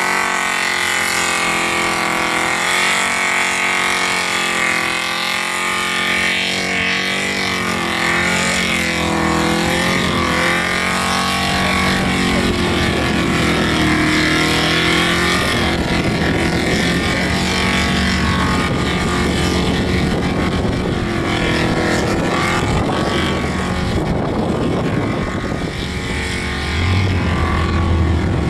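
Holden VK Commodore V8 held at high revs during a burnout, rear tyres spinning in clouds of smoke. The revs rise and fall over the first dozen seconds, then the engine holds a rougher, steadier note.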